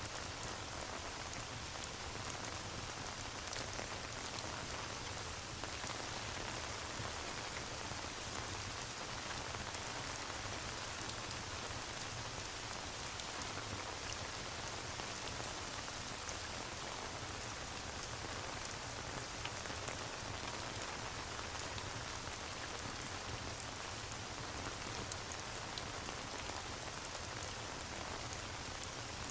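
Steady rain ambience with faint scattered crackles and ticks, the rain-and-fireplace background track.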